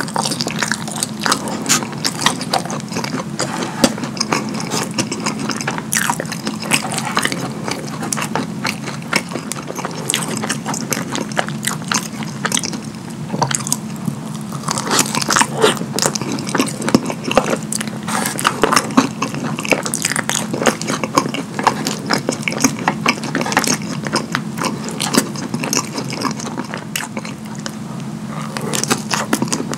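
Close-miked open-mouth chewing and lip smacking of fries loaded with nacho cheese sauce and sloppy joe meat sauce, a dense run of sticky clicks and smacks with a short pause in the middle.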